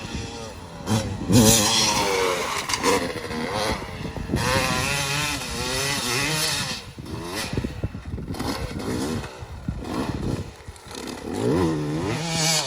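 Yamaha YZ250 two-stroke motocross bike engine revving hard, its pitch rising and falling again and again as the rider works the throttle.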